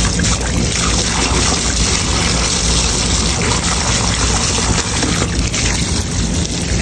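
Water running and splashing in a rooftop unit's condensate drain pan as it is flushed out, over a steady low mechanical hum.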